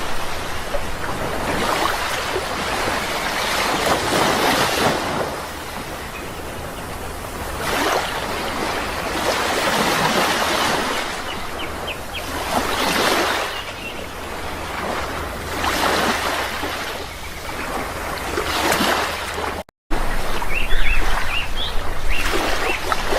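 Sea waves breaking and washing on a shore, swelling and falling every few seconds, with a few faint bird chirps now and then. The sound cuts out for an instant near the end.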